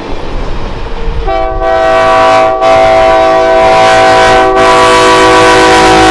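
Canadian Pacific 2816, a 4-6-4 Hudson steam locomotive, blowing its chime whistle: about a second in, a loud held chord of several notes starts over the low rumble of the train, broken briefly twice.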